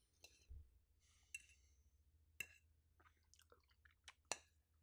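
Faint chewing of a soft shrimp omelette, with a few sharp little clicks of a fork against a plate.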